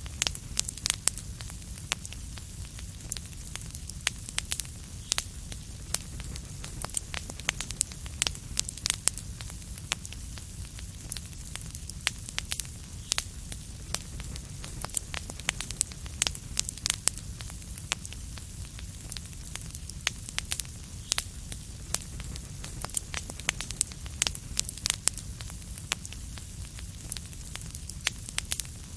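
Wood fire in a fireplace crackling: a steady stream of irregular sharp pops and snaps over a low, even rumble.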